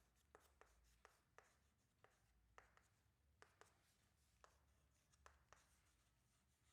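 Near silence with faint, irregular ticks and scratches of handwriting: a pen working on the writing surface, about a dozen light strokes and taps.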